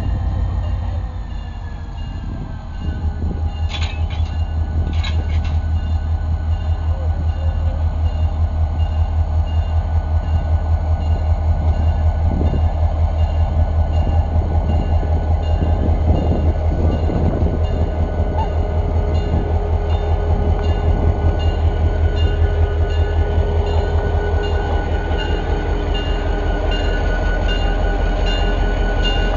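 Train running on the track: a loud, deep, steady rumble with a fast, regular pulsing beat.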